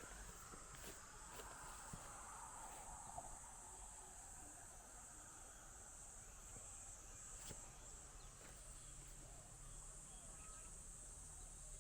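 Faint, steady high-pitched insect chorus, with a few soft clicks.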